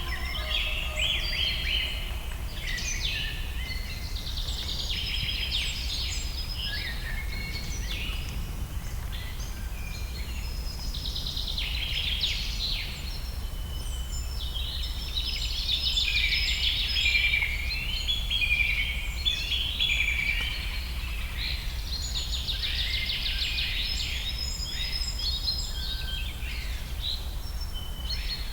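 Several songbirds singing in a forest, their chirps and trills overlapping almost continuously, over a steady low rumble.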